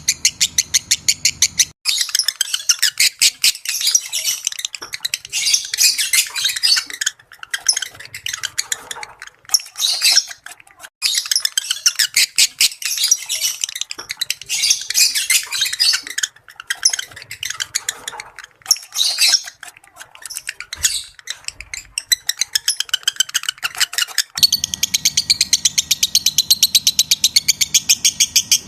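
Lovebirds in breeding condition chattering in rapid, high-pitched twitters and squawks. At the start and end the chatter is a fast, even run of clicking notes, and in between it comes in irregular bursts with short breaks. The character changes abruptly twice.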